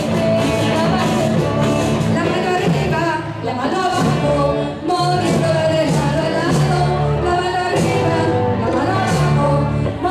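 A song sung with instrumental accompaniment, the voices moving over steady held low notes and a regular beat.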